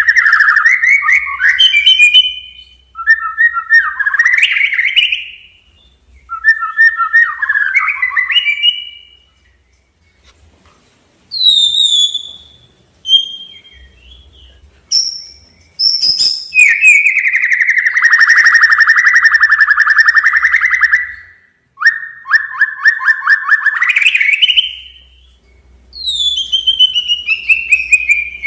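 Male white-rumped shama (murai batu) singing a loud challenging song of separate phrases: falling clear whistles, quick warbled notes, and long, fast rattling trills in the second half, with short pauses between phrases.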